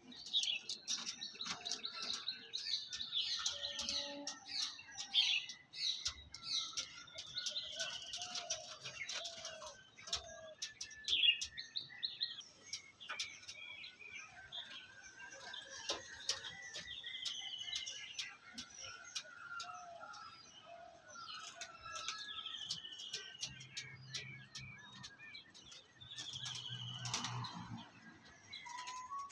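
Small birds chirping over and over, each call a short high note sliding downward, with scattered sharp clicks between them.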